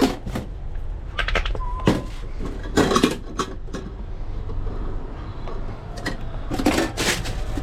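Kitchen clatter in a hot dog truck as an order is assembled: a scatter of sharp knocks and clinks from utensils, lids and containers, over a steady low hum.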